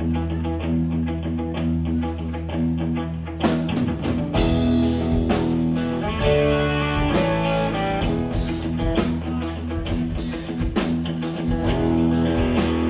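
Live rock band playing an instrumental passage: electric guitar over sustained bass notes, with drums and cymbals coming in about three and a half seconds in and the full band carrying on.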